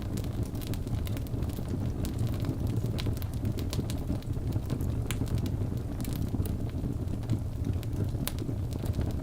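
Birch logs burning in a fireplace: a steady low roar of the flames with frequent sharp crackles and pops scattered irregularly throughout.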